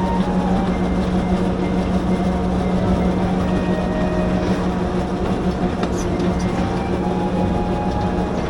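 Akasawa Forest Railway's narrow-gauge train running along the track: a steady engine hum with wheel and rail noise.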